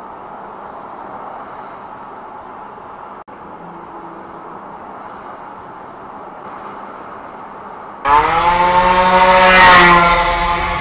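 Steady road and wind noise. About eight seconds in, a loud engine cuts in suddenly and revs up, rising in pitch, then eases off a little.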